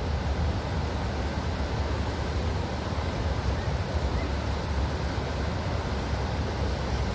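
Waterfall: a steady rush of falling water, heaviest in the low rumble.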